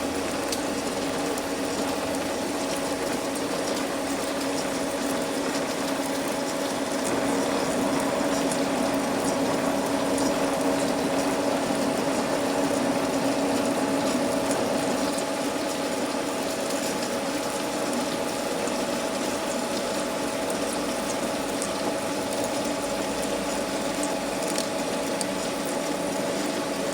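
Metal lathe running, a steady mechanical hum and whine from its drive, a little louder midway through.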